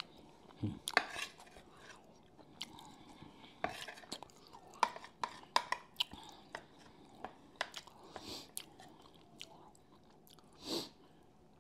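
Close-miked chewing of biscuits and gravy, with irregular wet mouth smacks and clicks.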